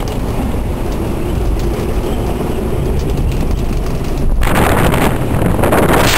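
Strong wind buffeting the microphone over the low rumble of a sailing yacht running through rough sea. About four seconds in, the noise jumps to a louder, hissing rush.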